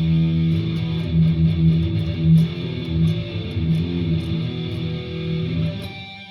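Jackson Warrior electric guitar being played with a pick, a run of notes ringing steadily and stopping shortly before the end, recorded through a phone's microphone.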